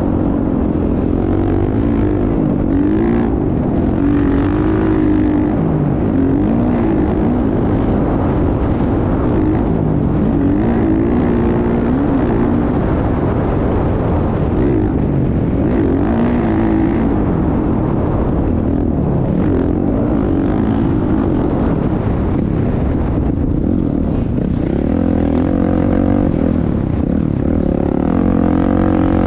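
Motocross motorcycle engine revving, its pitch rising and falling again and again over a steady low rumble.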